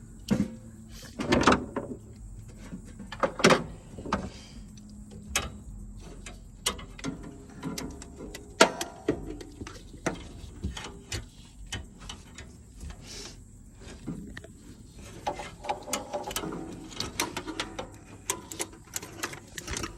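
Scattered metallic clicks, taps and knocks of hand tools on the engine as the fuel pump's mounting nuts are worked off, irregular and spread throughout.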